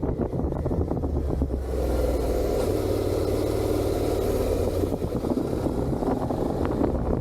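Suzuki SV650's 90-degree V-twin running through its stock exhaust while under way, with wind rush on the microphone growing from about two seconds in and easing near the end.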